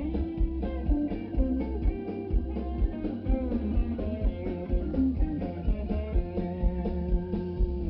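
Blues band playing live, a guitar carrying the lead over a steady low beat.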